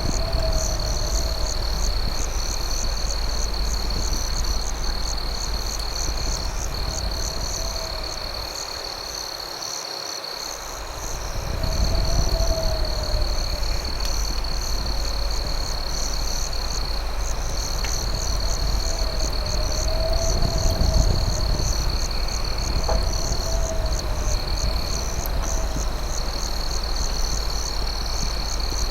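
Night insect chorus: crickets trill steadily at a high pitch over a faster pulsing buzz, while a lower warbling call repeats every few seconds. A low rumble sits underneath, fading briefly near the middle, with a couple of faint crackle pops.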